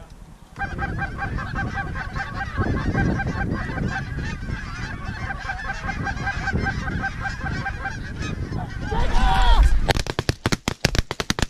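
Geese honking over and over as they come in. About ten seconds in, it breaks into a rapid volley of many shotgun blasts.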